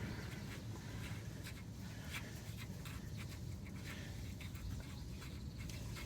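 Faint, irregular scraping and light metal clicks of a wrench turning a nut off the center link's joint at the idler arm.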